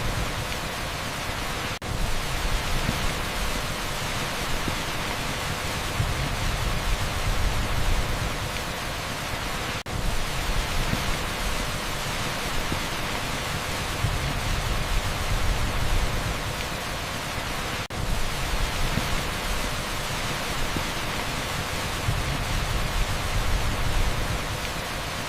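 Torrential rain on asphalt blended into a dense, steady pink-noise hiss, with a brief drop in level three times, about every eight seconds.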